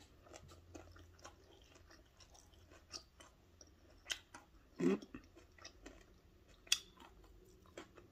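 A person chewing food close to the microphone, with scattered sharp mouth clicks and smacks a few times.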